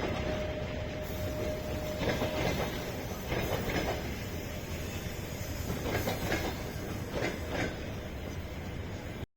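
A moving vehicle running, with a steady rumble and irregular knocks, like wheels going over joints. A faint steady tone sounds for the first two seconds or so. The sound cuts off suddenly just before the end.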